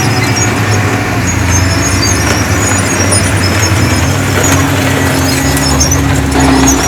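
Heavy diesel earthmoving machinery running steadily under load, with scattered short high-pitched squeaks. A steady engine tone comes in about four seconds in.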